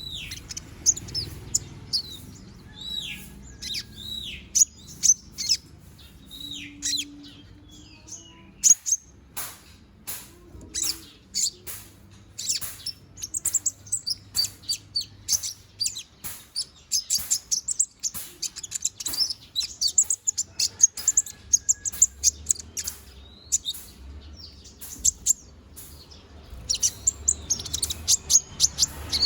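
Konin (kolibri ninja) sunbird singing on and on: rapid, high, thin twittering chirps mixed with short downward-sweeping whistled notes.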